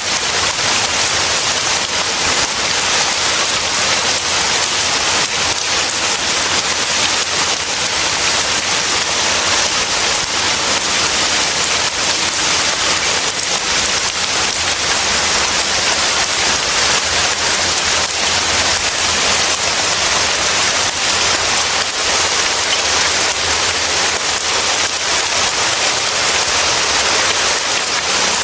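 Rain falling steadily: an even, dense hiss of countless drops that does not let up.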